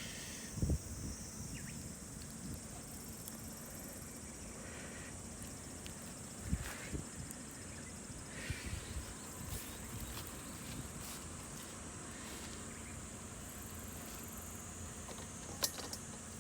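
Steady high-pitched insect chorus, with a few short knocks and small handling rustles over it.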